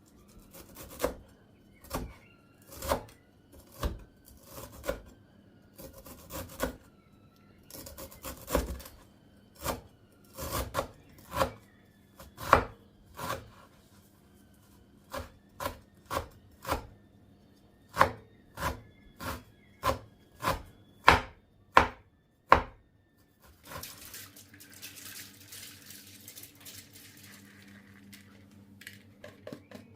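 Knife chopping food on a cutting board in steady strokes, about one every 0.7 s, with a brief pause about halfway, stopping a little after 22 s. A steady hiss follows.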